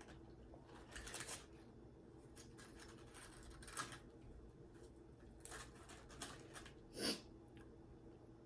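Close-up eating sounds: chewing with about seven short, scattered crunches and mouth noises, the loudest about seven seconds in.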